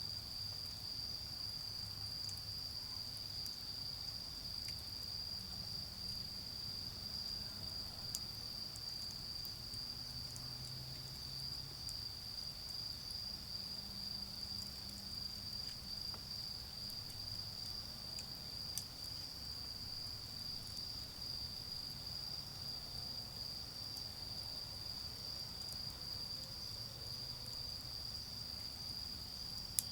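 Autumn insects trilling in one continuous high-pitched chorus, with a few faint pops from a charcoal fire and a soft low rumble of distant traffic.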